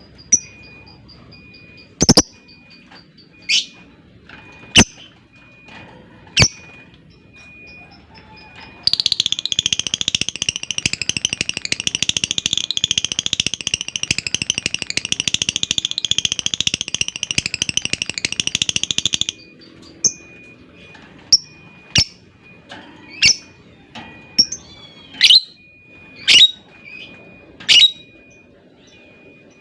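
Lovebirds calling: short sharp chirps every second or two, broken about a third of the way in by one long, rapid chattering trill (the 'ngekek') lasting about ten seconds, after which the single chirps resume.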